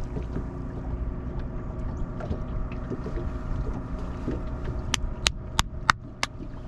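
Boat motor running steadily with a low hum. Near the end, five sharp clicks come about three a second.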